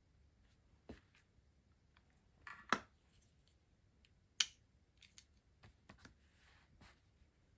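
Stationery and its packaging handled by hand: scattered light clicks and taps, with two sharper clicks, one about a third of the way in and one just past halfway.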